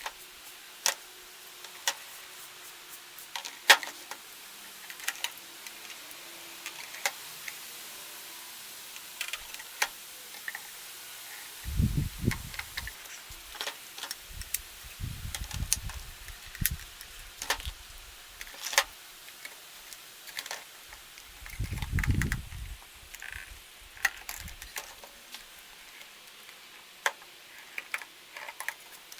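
Scattered sharp clicks and light taps of small hard objects being handled, with a few dull low thumps.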